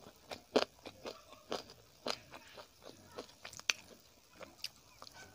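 Close-miked chewing of chicken curry and rice: a run of sharp, wet mouth clicks and smacks, about three a second at irregular spacing.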